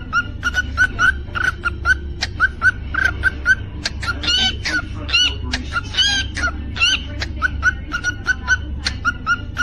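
Cockatiel chirping in a quick repeated pattern, about three short chirps a second, with a few longer rising whistled calls around the middle, over a steady low hum.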